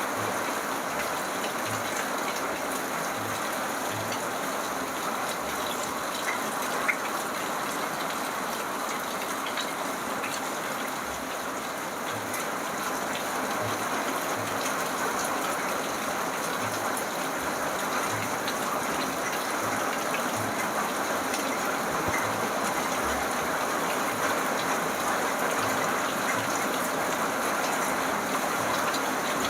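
Steady rain falling, a constant even hiss with scattered drip ticks and one sharper tap about seven seconds in.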